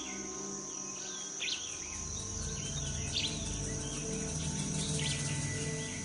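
Rainforest insects keeping up a steady high drone, with a few short bird calls about a second and a half, three seconds and five seconds in, over soft background music.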